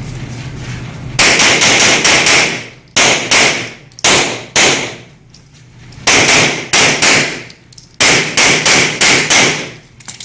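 Rapid pistol shots fired in quick strings: about five, then pairs, then groups of four and five, each crack followed by a short ringing decay, the string beginning about a second after the start signal.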